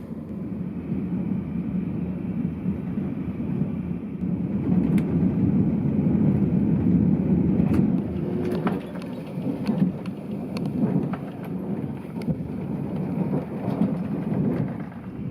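Low, steady rumble of a train running, heard inside the passenger car, with a few faint clicks; it is loudest in the middle and eases slightly after that.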